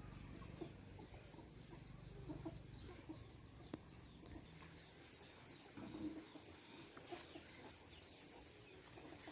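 Faint clucking of chickens, short scattered calls with a few high bird chirps, over a low steady hum that fades about halfway through.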